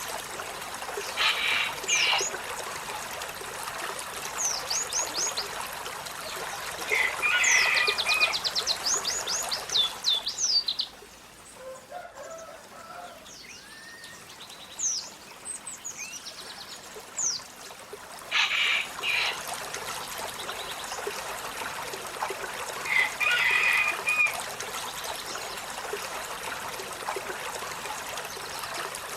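Olive-backed sunbird calling: sharp high chips and, about a third of the way in, a fast run of sweeping notes, in several bursts. A steady trickling-water hiss lies beneath and drops away for a few seconds midway.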